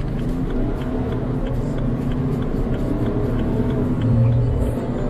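Car engine pulling hard under acceleration, its pitch rising steadily.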